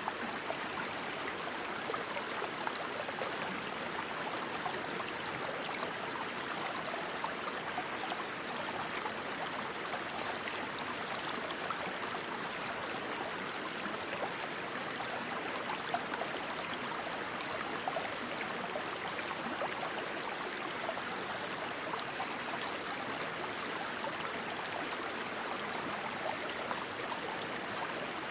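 Steady rushing water of a stream, with short high-pitched chirps repeating over it and two brief trills, about ten seconds in and near the end.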